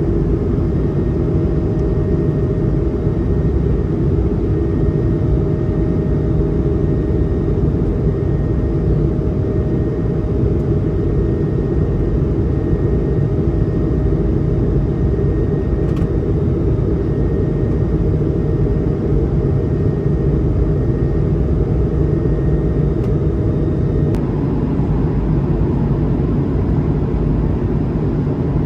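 Steady cabin noise of an Airbus A220-100 in cruise: an even, loud rumble of airflow and its Pratt & Whitney PW1500G geared turbofans. A faint steady tone in the noise stops about 24 seconds in.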